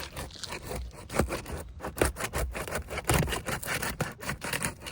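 Sealed asphalt shingles being pried loose by hand: irregular scraping and crackling as the sealant strips let go and the old, discontinued Tamko shingles crack instead of lifting cleanly.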